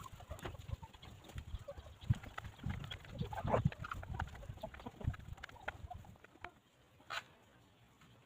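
Free-range hens clucking softly amid short taps and scratches from pecking, dying down after about six seconds, with one sharp click near the end.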